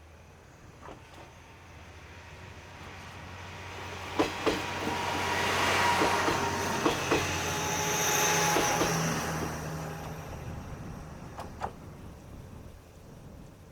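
Kominato Railway diesel railcar passing by, its engine drone swelling and then fading, with pairs of sharp clicks as each bogie's wheels cross a rail joint, three times, and a thin whine in the middle.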